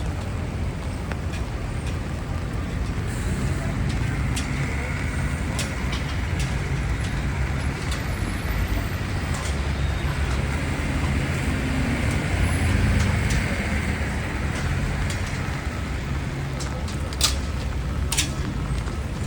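Street traffic on rain-wet pavement: a steady wash of tyre noise and engine rumble, including buses, with two sharp clicks near the end.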